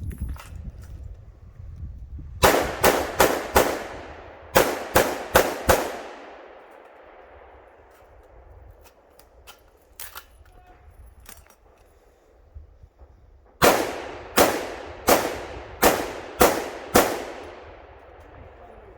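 Rifle shots fired in quick strings during an IPSC rifle stage: a string of about four rapid shots, a second string of about five shortly after, and after a pause a third string of about six, each shot followed by an echo. A couple of fainter, more distant shots are heard in the pause.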